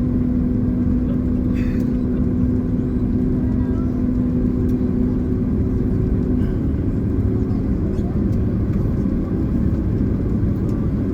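Steady cabin noise inside a Boeing 767-300ER in flight: a rumble of airflow and the twin jet engines with a steady engine hum, the hum easing about six seconds in.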